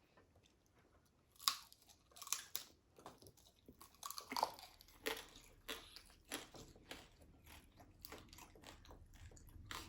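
Close-up chewing of pork belly: after a quiet first second, loud crunchy bites, then irregular crunching and chewing.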